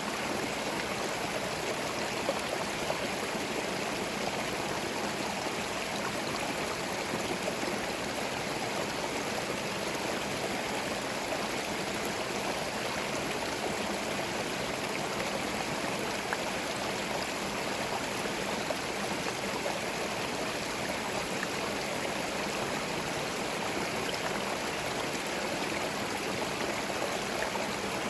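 Small forest stream flowing over stones, a steady babble of running water.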